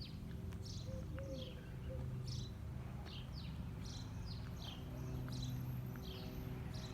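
Small birds chirping over and over, short high notes falling in pitch, one or two a second, over a low steady hum.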